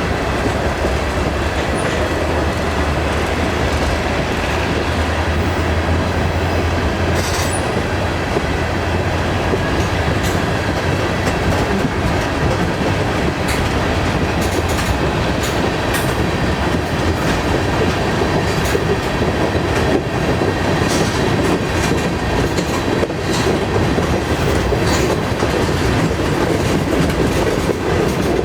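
Freight train rolling past at low speed: a steady rumble of cars on the rails with repeated wheel clicks over the track joints.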